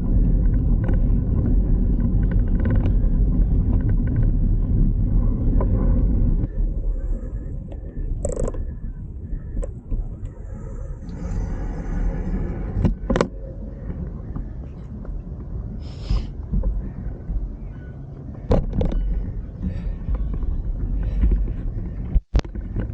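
Wind rumbling on the microphone of a moving bicycle camera, strong at first and easing about six seconds in, with several sharp clicks and knocks from the ride.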